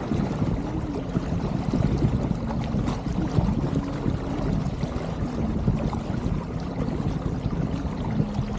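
Water gurgling and washing along the hull of an Elliott 7.4 keelboat under sail, as a steady low rushing noise.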